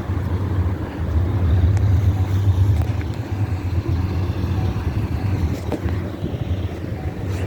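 A car engine running at a steady idle, a continuous low rumble.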